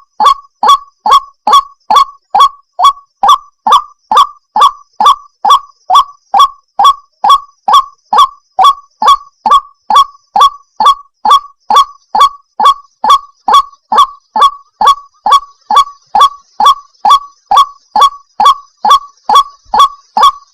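White-breasted waterhen giving its monotonous 'kwak' call: short, loud notes repeated evenly at about two and a half a second, as used in a bird-lure recording.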